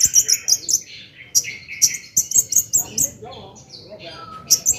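Long-tailed shrike (cendet) singing in rapid clusters of sharp, high chirps. There is a softer lull about three seconds in, then clearer whistled notes near the end.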